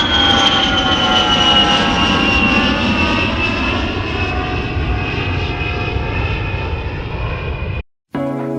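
Recorded aeroplane engine sound effect played over a sound system: a steady engine rumble with a high whine that slowly falls in pitch, cut off abruptly near the end. Dance music starts right after.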